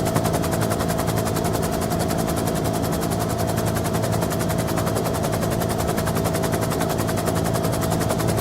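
Bell UH-1N Twin Huey helicopter heard on board, running steadily: rapid, even blade chop over the drone of its twin turboshaft engines, with a steady high whine throughout.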